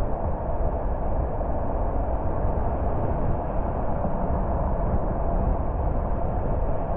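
Car driving at a steady pace: continuous road and engine noise with no change.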